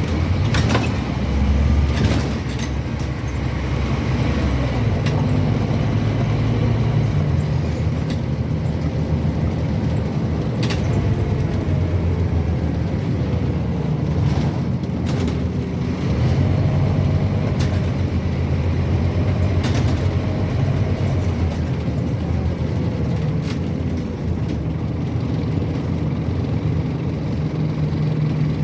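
Interior sound of a Scania N230UB OmniCity bus driving, its five-cylinder 9-litre diesel droning steadily, with the engine note rising and falling as it pulls away and changes gear. Several sharp knocks and rattles from the bodywork come through as it goes over the road.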